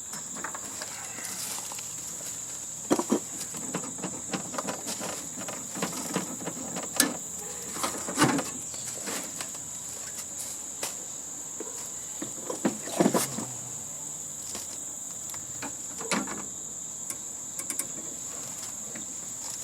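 Scattered clanks and clicks of hand tools and metal parts as a heating and air-conditioning unit is being stripped for scrap, with a few louder knocks. Behind them runs a steady, high-pitched chirring of insects, typical of crickets.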